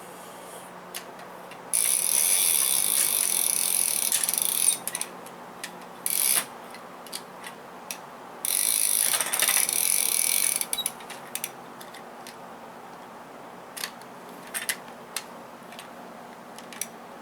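A plastic toy's ratchet mechanism being cranked in three quick spells of rapid clicking, the first about 3 seconds long, a short one, then one of about 2 seconds, with single clicks and knocks of toy pieces in between.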